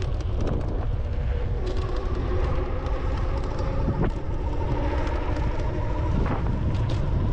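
Strong wind buffeting a bike-mounted GoPro's microphone while riding, a heavy, steady low rumble. Faint steady whining tones run underneath.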